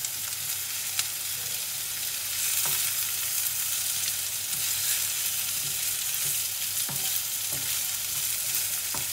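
Chicken thighs and sliced onions sizzling in oil in a non-stick frying pan, seared over high heat. Wooden and silicone spatulas turning the pieces make a few light taps and scrapes. The sizzle grows a little louder a couple of seconds in.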